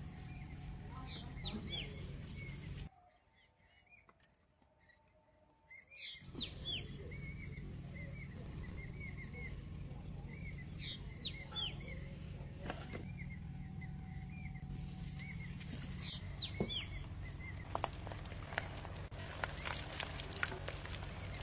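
Small birds chirping over and over in short arched notes, over a steady low hum. The sound drops away for about three seconds near the start, then the chirping resumes.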